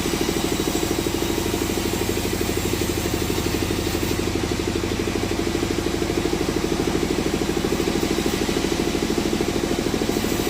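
An engine running steadily with a fast, even chugging beat and no change in speed, typical of a sawmill's engine idling or running without load.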